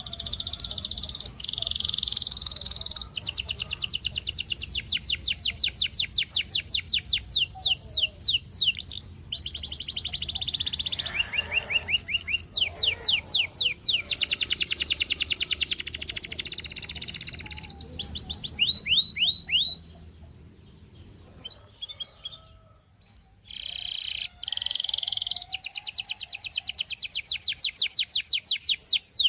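Russian singing canary in full song: long rolling trills of rapidly repeated notes and quick falling sweeps, broken by a short lull about two-thirds of the way through before the trills resume.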